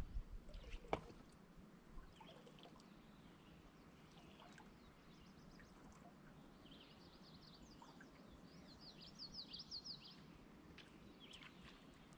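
Near-silent riverside quiet with faint songbird calls: scattered high chirps, then a run of quick high falling notes about seven to ten seconds in. A single light tap sounds about a second in.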